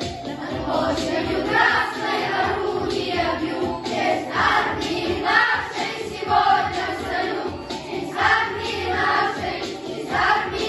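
Boys' vocal ensemble singing a song in chorus, with musical accompaniment.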